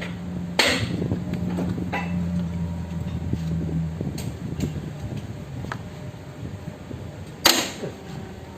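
Sharp metallic knocks and clinks of hand tools at work on a truck's diesel engine, one about half a second in and a louder one near the end, with lighter clicks between. A low steady hum runs underneath and stops about halfway through.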